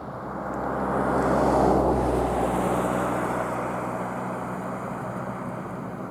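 A motor vehicle passing: a rush of engine and tyre noise that swells over the first two seconds, then slowly fades away.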